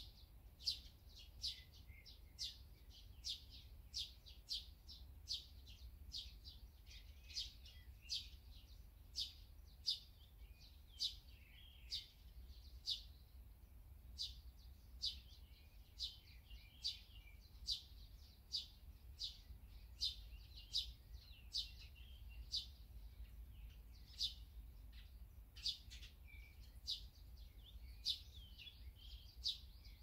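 A small songbird chirping over and over, short high notes coming about every two-thirds of a second, over a steady low background hum.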